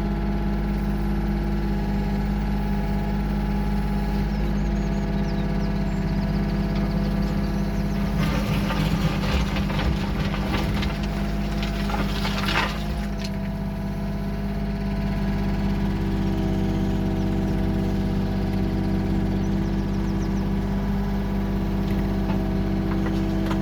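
Diesel engine of a working machine running steadily under load. About a third of the way in there are a few seconds of rattling, clattering noise.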